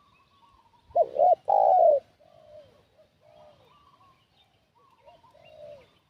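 Spotted dove cooing: one loud phrase about a second in, two short notes and then a longer falling note. Fainter answering coos follow, and small birds chirp faintly.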